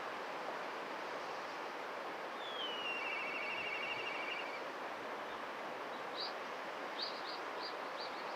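Black kite calling: one whistle that slides down in pitch and runs straight into a fast, even trill for about two seconds, the kite's typical 'pee-hyororo' call. A few short high chirps follow near the end, over a steady background hiss.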